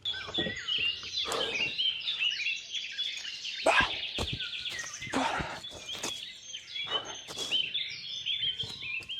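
Songbirds chirping and trilling in quick, overlapping phrases, with a few sharp knocks scattered among them.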